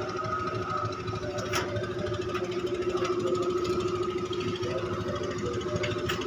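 A klotok river boat's diesel engine running steadily with a low chugging rumble, a held hum over it.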